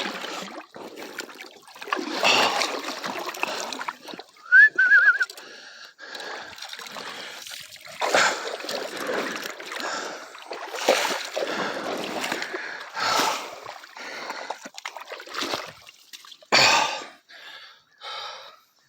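Water splashing in irregular bursts as a large hooked largemouth bass thrashes while being landed.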